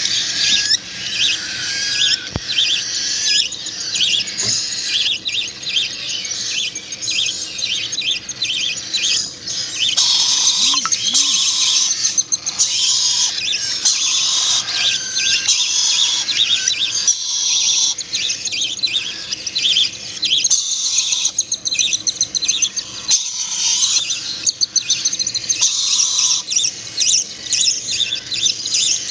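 Hand-reared songbird chicks begging at feeding time, a dense, continuous chorus of rapid high-pitched chirps.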